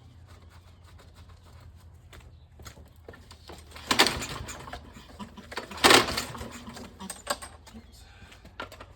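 Ratchet clicking as loose bolts holding a lawnmower's pull-rope starter are tightened down: scattered small clicks, with two louder bursts of rapid clicking about four and six seconds in.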